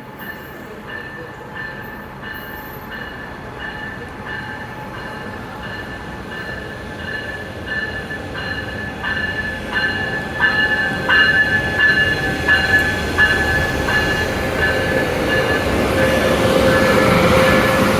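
Brightline passenger train pulling into the station, its bell ringing about one and a half strokes a second and growing steadily louder as it comes in. Near the end the wheels and brakes swell up in a squeal.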